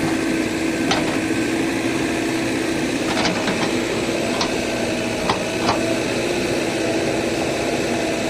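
Heavy machine's diesel engine running steadily, with about half a dozen sharp knocks scattered through it.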